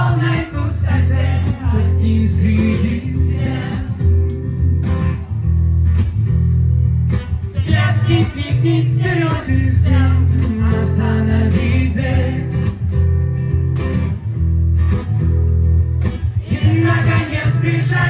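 Live acoustic song: strummed acoustic guitar with a voice singing in stretches.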